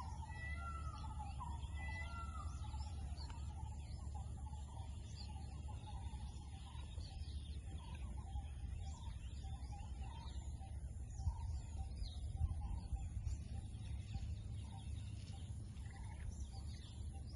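Several birds calling and chirping, with a run of repeated falling calls in the first couple of seconds, over a steady low rumble. Two brief knocks stand out a little past the middle.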